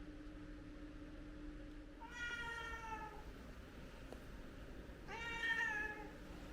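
A domestic cat meowing twice: two drawn-out calls about three seconds apart, the second louder.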